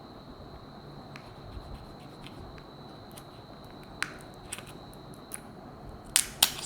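Scattered small clicks and taps of hard plastic, glass and metal parts and tools being handled while a smartwatch is taken apart, with a sharp click about four seconds in and two louder clicks close together near the end.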